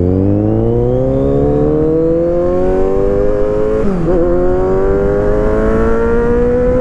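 Kawasaki Z900's inline-four engine accelerating under way, its pitch climbing steadily, with an upshift about four seconds in, after which it climbs again.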